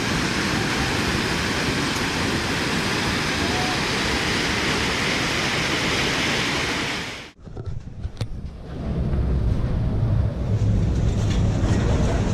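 Floodwater of an overflowing river rushing steadily. It cuts off suddenly about seven seconds in, and a low rumble of wind on the microphone with a few knocks builds up in its place.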